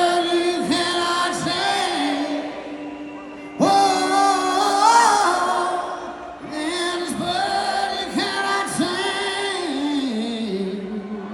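Live band music with singing: long, bending sung or played notes in three phrases, each separated by a short dip.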